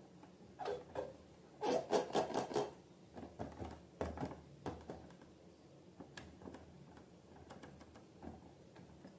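Slime being worked by hand: runs of short, sticky crackling clicks in quick clusters, the thickest burst about two seconds in, then scattered clicks.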